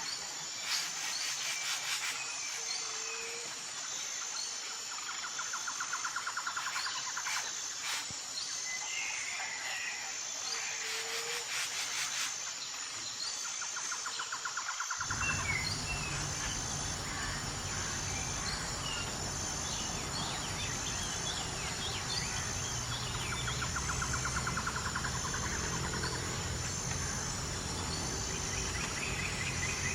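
Forest ambience of insects and birds: a steady high-pitched insect drone with small birds chirping and trilling over it. About halfway through the sound changes abruptly and a steady low hum joins in.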